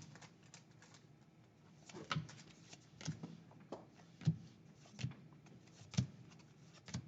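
Trading cards being handled, flipped through and set down one by one, making a faint, short slap or rustle about once a second.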